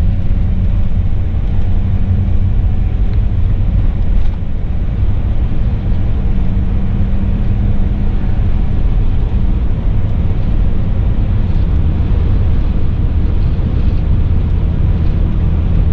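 Class C motorhome driving along the road: a steady, loud engine drone and road rumble.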